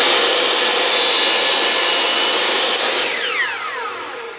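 Craftsman power saw cutting through a cedar fence picket at a 45-degree angle, then the motor winding down with a falling whine about three seconds in.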